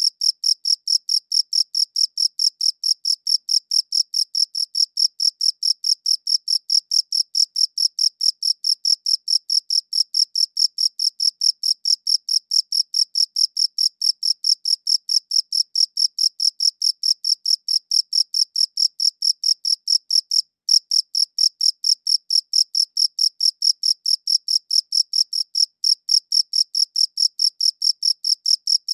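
A cricket chirping in a steady, even rhythm of about four to five high-pitched chirps a second, with one brief break about twenty seconds in.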